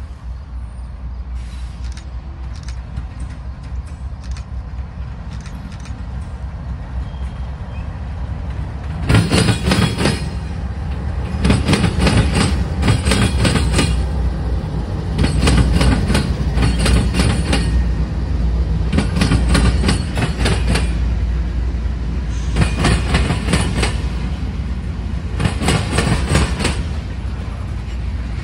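Norfolk Southern freight train passing close: a low diesel locomotive rumble builds as the train approaches. Then the locomotives and covered hopper cars roll by, their wheels clattering over the diamond crossing in repeating groups of loud clacks, often in pairs, about every three seconds, starting about nine seconds in.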